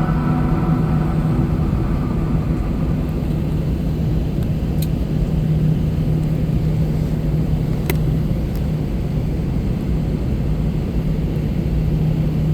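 Steady low cabin drone inside an Airbus A321 airliner, with a constant hum. The tail of a piece of music fades out in the first couple of seconds, and a few faint clicks come around the middle.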